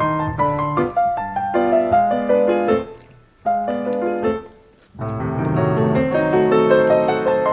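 Background piano music: a melody of short notes with accompaniment, with two brief near-pauses in the middle.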